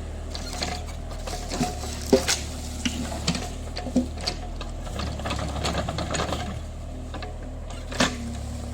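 JCB 30 Plus mini excavator's engine running steadily, with scattered sharp clanks and knocks from the machine at work, the loudest about two seconds in and near the end.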